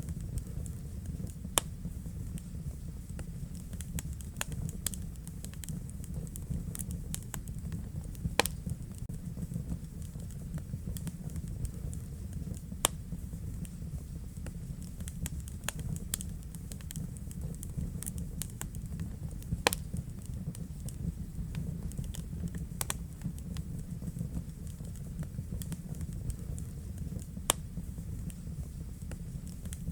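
Wood fire burning in a fireplace: a steady low rumble of the flames with irregular crackles and occasional sharper pops from the burning logs.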